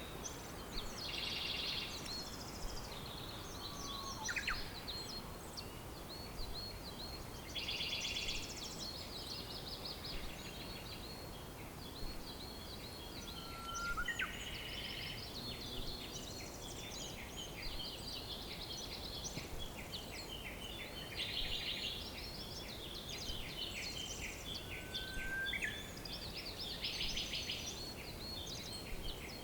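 Several birds singing and calling over a steady background hiss, with fast chattering trills and a few short rising whistles.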